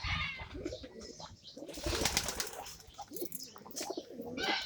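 Pigeons cooing in scattered, soft calls, with a brief rustling burst about two seconds in.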